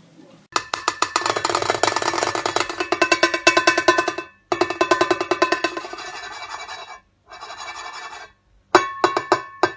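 Fast runs of rapid, drum-like tapping with a ringing pitch, stopping and starting abruptly several times.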